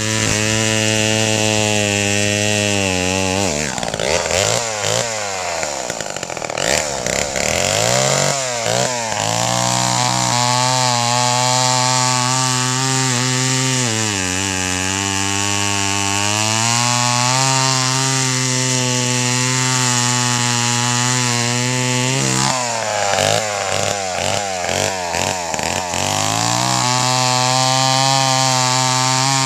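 A small engine running at high, steady speed. Twice its pitch drops and wavers for several seconds, about four seconds in and again near the end, then rises back.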